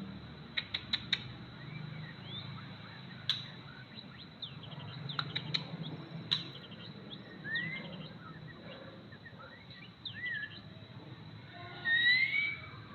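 A juvenile white-rumped shama (speckled young bird) singing in short scattered whistled notes that glide up and down, mixed with sharp clicks. A louder whistled phrase comes near the end.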